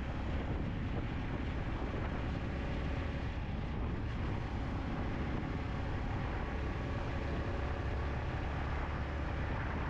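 Yamaha MT-15 motorcycle being ridden at a steady pace: its single-cylinder engine and the road and wind noise hold steady, with no change in speed.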